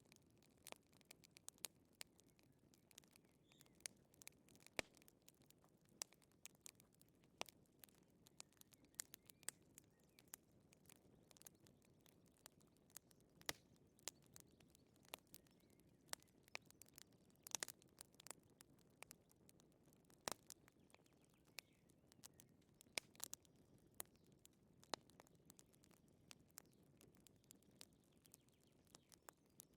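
Wood fire crackling: many sharp, irregularly spaced pops and snaps over a faint low rumble.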